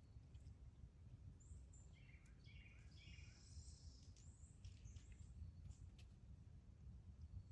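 Faint bird chirps and short trills, several overlapping calls about one and a half to five and a half seconds in, over a low steady outdoor rumble near silence.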